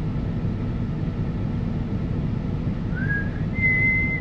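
Steady low rumble inside a truck cab. About three seconds in, a person starts whistling a tune: a short rising note, then a long high held note.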